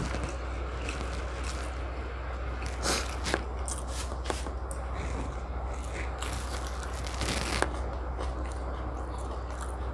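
Close-up eating sounds of chicken biryani and tandoori chicken being chewed and bitten, with scattered short clicks and crackles, over a steady low hum.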